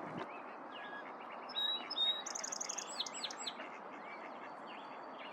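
Small birds singing and chirping: scattered short high notes, then about two seconds in a fast trill of high notes followed by several quick down-slurred calls, over a steady background hiss.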